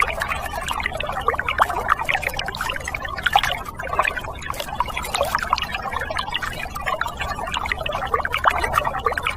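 Water trickling and splashing steadily, with a low steady hum underneath.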